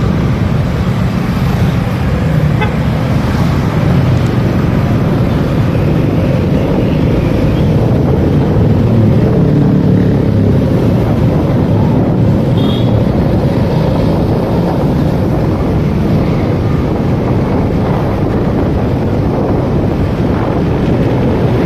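Steady engine and road rumble of a motorcycle riding in traffic, with a short horn toot a little past halfway.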